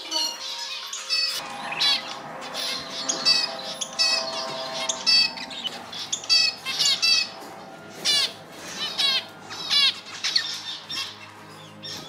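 Small pet cage birds chirping, with short, sharp calls coming in quick runs of several at a time, over soft background music.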